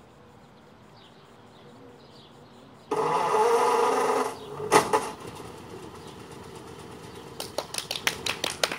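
1935 Ford flathead V8 brought to life after five years of sitting: the starter cranks it for about a second and a half, a loud pop follows, and the engine catches and runs steadily. In the last second or so there is a rapid run of sharp cracks.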